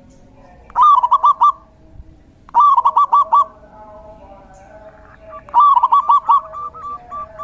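Zebra dove (perkutut) singing: three loud phrases of rapid, staccato cooing notes, with fainter short notes repeating near the end.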